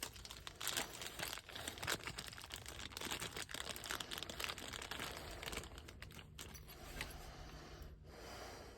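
Hands handling small parts of a truck door latch and handle assembly: steady crinkling and rustling dotted with many light clicks and taps.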